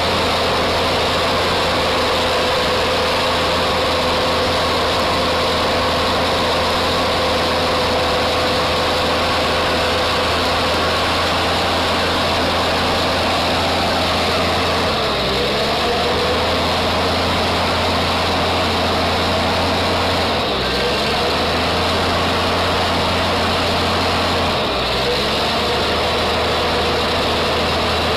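Heavy vehicle engine running steadily, its pitch dipping briefly three times.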